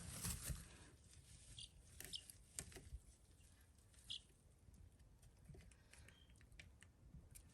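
Near silence in a chick brooder: a few faint, brief high peeps from meat-bird chicks and light scattered taps and rustles in the bedding.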